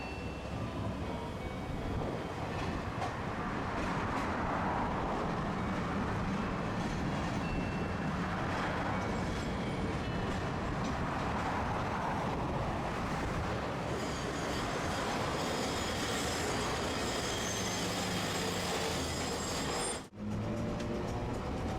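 A Tosaden streetcar running on street track: a steady rumble of wheels and running gear. After a brief break near the end, a low whine rises in pitch as the tram's motors pick up speed.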